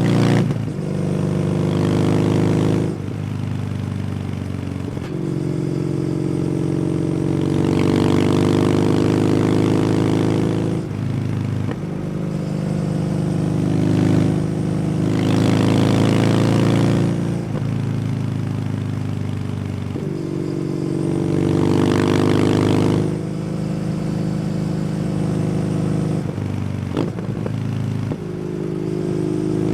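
Kawasaki W800's air-cooled parallel twin running through an SC Project exhaust while the bike is ridden. The engine note pulls louder and climbs in pitch under throttle four times, easing off and falling away in between, with one short sharp click near the end.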